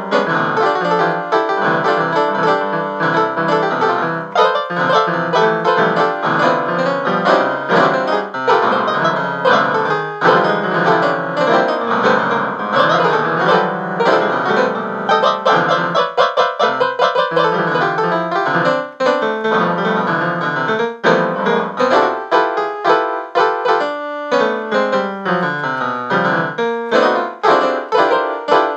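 Piano music played in fast runs of many notes, at a steady level.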